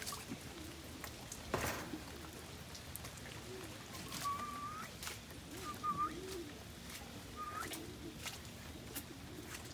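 Domestic pigeons cooing, low wavering calls repeating throughout, with three short high rising whistle-like calls in the middle. Scattered sharp ticks, with one louder knock about a second and a half in.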